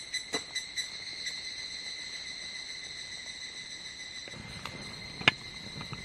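Higurashi evening cicadas calling in a high ringing tone, pulsing at first and then held steady. About five seconds in there is one sharp click.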